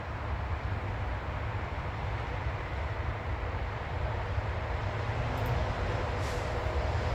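Steady low rumbling outdoor background noise, with a couple of faint, brief high sounds near the end.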